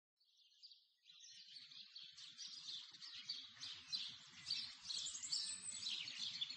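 Faint birds chirping, many short overlapping calls. The sound fades in from silence about a second in and grows gradually louder.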